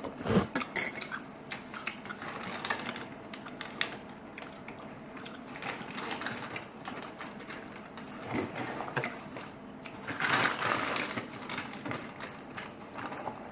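Eating sounds: a stream of rapid small clicks and smacks from chewing and cutlery on a plate, with a louder patch of noise about ten seconds in.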